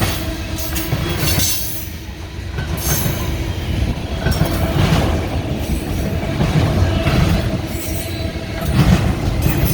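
Freight train cars rolling past, their wheels clattering over the rail joints with a faint, steady wheel squeal.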